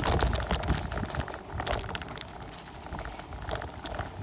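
Dense crackling, crunching and rattling with a low rumble: a bicycle being ridden over rough ground, heard through a phone duct-taped to the handlebars.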